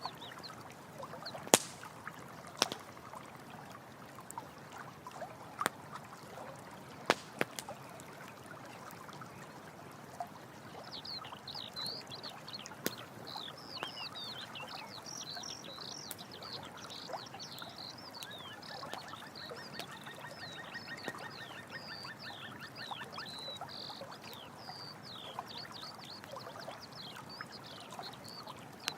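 Running stream water with the occasional sharp pop of a crackling campfire, several in the first third. From about a third of the way in, many high, short chirping animal calls join, with a fast trill in the middle.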